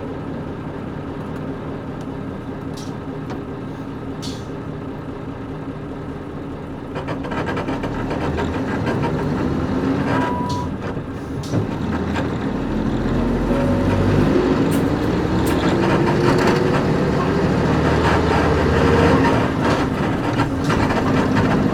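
KC-UA460LSN bus with PG6 diesel engine, heard from inside: the engine runs steadily for the first several seconds, then from about seven seconds in it gets louder and the engine note climbs as the bus accelerates, with a dip near the end as it changes gear. Light clicks and creaks sound over it.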